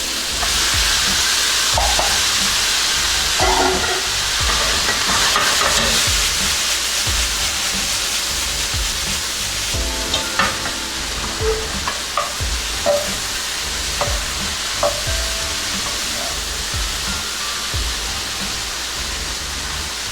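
Sliced onions and bell peppers sizzling steadily in a hot frying pan, with occasional clicks of a utensil stirring against the pan.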